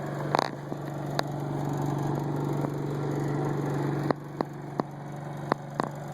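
An engine idling steadily, with a string of sharp clicks and knocks over it, about eight in all and most of them in the second half, as of something being handled.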